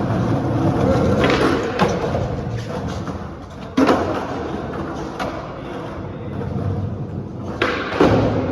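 Skateboard wheels rolling on concrete, broken by sharp clacks and slams of the board: one loud hit about four seconds in and two more near the end.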